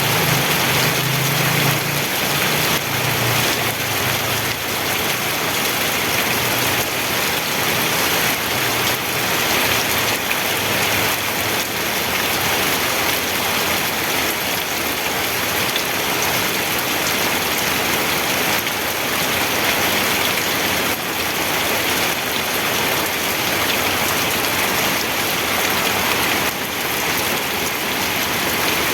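Steady rainfall, an even hiss of drops with no letup. A faint low hum underneath fades out over the first ten seconds or so.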